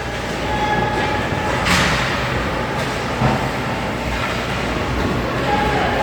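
Ice hockey game in an arena: a steady, echoing rumble of play on the rink, with a sharp scrape about two seconds in and a short knock about a second later.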